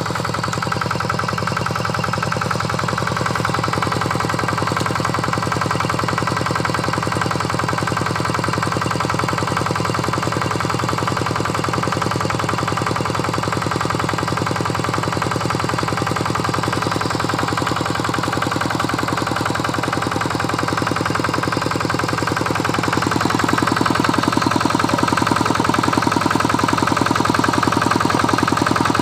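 Single-cylinder diesel engine of a Quick Impala two-wheel hand tractor running steadily with a fast, even chugging while it works the field, growing louder about three-quarters of the way through.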